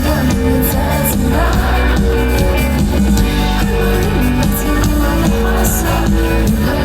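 A live pop band playing a song, with held bass notes and cymbal hits over a full band sound.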